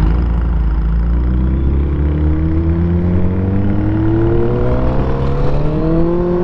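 Suzuki Hayabusa's inline-four engine pulling under acceleration in one gear, its pitch rising slowly and steadily.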